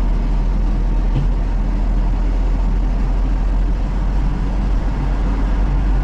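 JCB 3DX backhoe loader's diesel engine running steadily with a deep, unbroken rumble.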